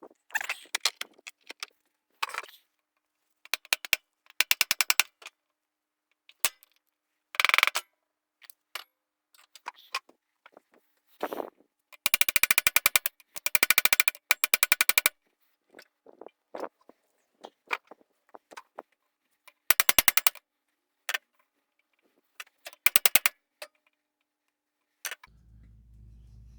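A tool working bolts off a Honda Trail 90 engine, rattling in separate bursts of rapid clicks. The longest burst runs for about three seconds near the middle. A faint low hum sets in near the end.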